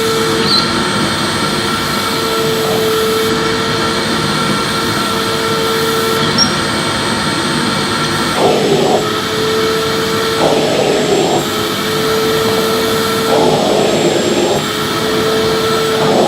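Electric vacuum cleaner running steadily with a whining hum. In the second half its sound shifts briefly every two seconds or so, as when the nozzle is moved over the floor.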